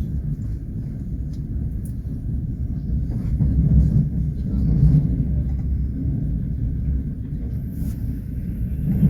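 Passenger train carriage running at speed: a steady low rumble of wheels on the rails and the moving coach, swelling a little midway.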